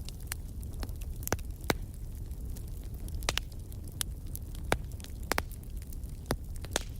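Wood fire burning in a fireplace: a steady low rumble with irregular sharp crackles and pops, about half a dozen of them loud.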